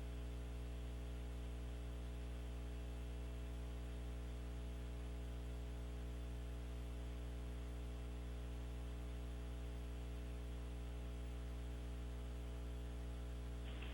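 Steady electrical mains hum with a faint hiss, unchanging, on an open audio line.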